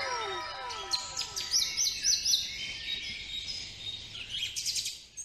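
Bird chirping in short, quick rising notes, several in a row, with more chirps near the end. At the start, a repeated falling whistle-like tone fades out over the first second and a half.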